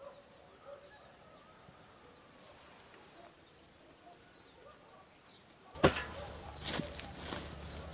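Faint birds chirping, with short high chirps now and then. About six seconds in, a sudden loud knock, then a low rumble with a few more clicks.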